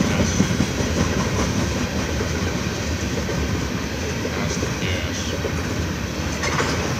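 Loaded coal hopper cars of a Norfolk Southern freight train rolling past, a steady low rumble of steel wheels on rail, with a brief sharper noise near the end.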